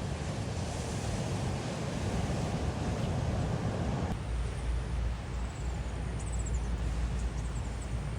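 Wind rumbling on the microphone outdoors, a steady noise that turns heavier and deeper about four seconds in, with a few faint high chirps near the middle.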